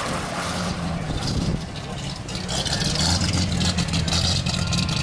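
The 1934 Buick Model 66C's straight-eight engine idling steadily, a little louder from about three seconds in.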